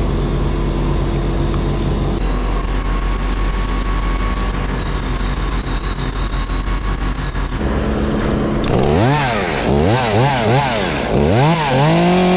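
Engine idling steadily, then a Stihl chainsaw revved up and down several times in quick succession, ending held at high revs.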